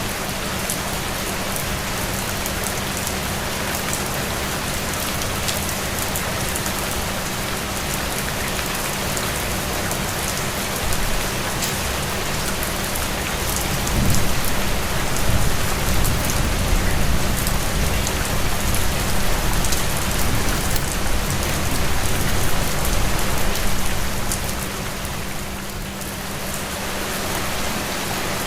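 Steady rain falling, a dense hiss with many individual drops ticking through it. About halfway through, a low rumble swells up and then fades shortly before the end.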